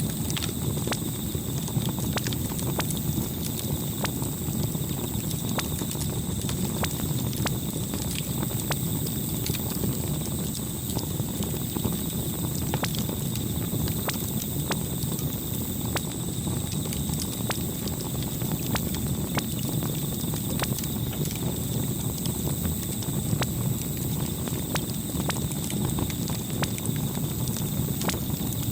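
Campfire burning with a steady low rumble and frequent irregular sharp crackles and pops.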